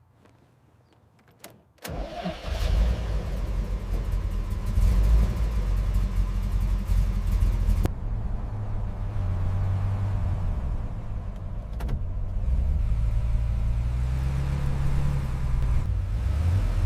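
Restored 1948 Tucker 48's engine starting about two seconds in, after a couple of faint clicks, then running steadily at idle.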